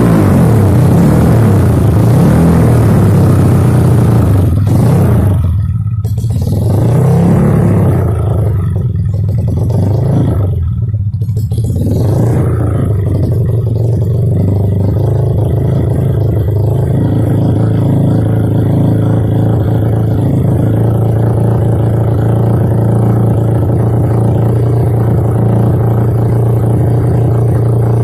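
Kawasaki KLX trail bike's single-cylinder four-stroke engine breathing through an Over Racing aftermarket exhaust. The revs fall at first, rise and fall once briefly, then settle into a steady idle.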